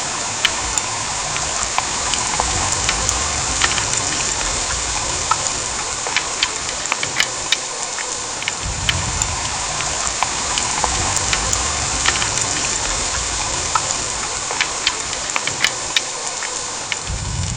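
Heavy rain pouring down: a steady hiss with many sharp drops ticking and pattering on surfaces throughout, and a low rumble that swells up now and then.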